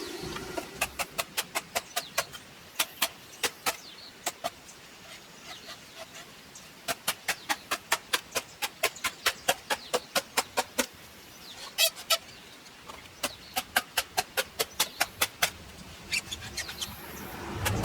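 Chickens clucking in quick runs of short, sharp notes, about four or five a second, in several bursts with short pauses between.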